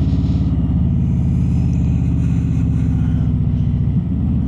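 Harley-Davidson Road Glide's V-twin engine running steadily on the road, a low, evenly pulsing exhaust note, with a brief dip near the end.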